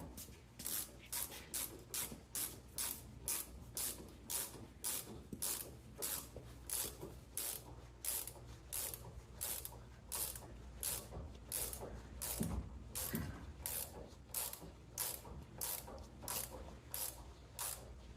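Ratcheting clicks in an even run, about two a second, as a fastener is tightened.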